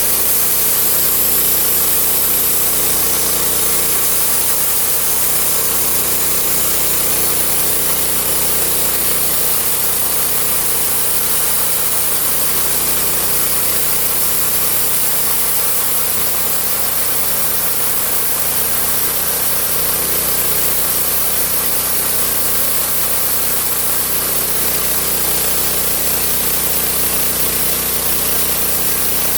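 Homemade sawmill running under power and cutting wood: a steady engine note under a continuous sawing noise that does not change.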